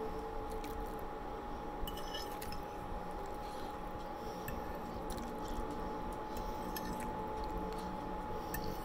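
Close-up chewing and wet mouth sounds of someone eating buttered rice, with a metal fork clicking against a ceramic plate a few times. A steady faint hum runs underneath.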